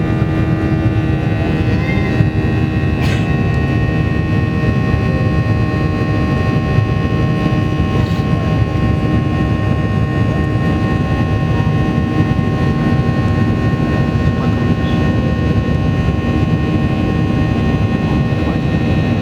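Airliner's jet engines running steadily: a loud low rumble with several steady whining tones above it.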